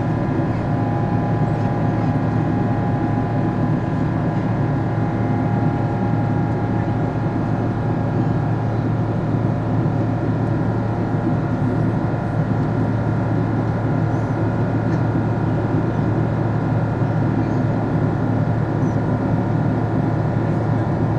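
Boeing 777's GE90 turbofan engine running at climb power, a steady dense noise with several constant humming tones and no change in pitch or level, heard from inside the aircraft.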